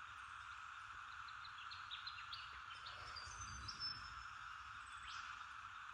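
Faint outdoor ambience: a steady high drone, with small birds giving a quick run of short high chirps in the middle.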